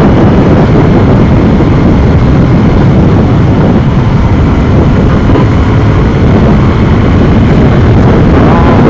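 Motorcycle ridden at about 100 km/h, heard through a lavalier microphone: loud, steady wind buffeting on the mic mixed with engine and road noise.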